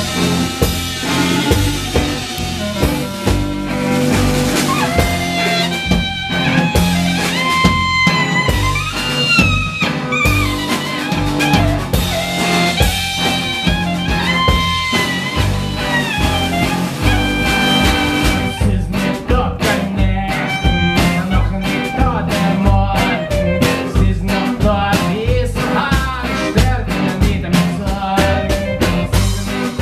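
A klezmer band playing live with no singing: a bending lead melody over double bass and drum kit. The drumming turns busier about two-thirds of the way through.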